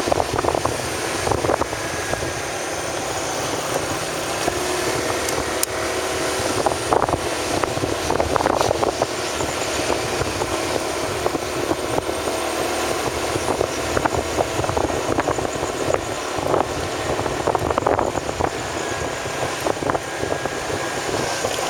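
A motor vehicle's engine running steadily while riding, with road noise and scattered knocks and rattles from bumps in a broken road surface.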